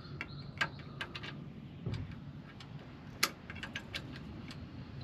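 Irregular light metallic clicks and clinks of bolts and hand tools being handled while the bolts are taken out, over a low steady hum.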